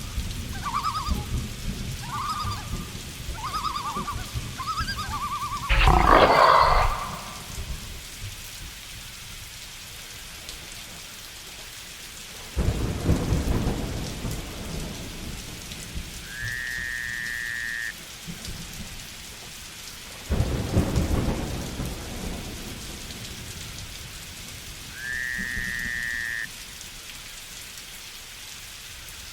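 Steady rain with thunder: a loud crack about six seconds in and low rolling rumbles later. Short animal calls repeat in quick succession for the first few seconds, and a high, held whistle-like call sounds twice in the second half.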